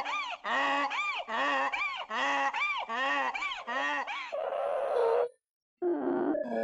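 Donkey braying: a long run of rhythmic hee-haws, each haw rising and falling in pitch, ending in a rough wheeze about four and a half seconds in. After a short gap, a different low moaning call begins near the end.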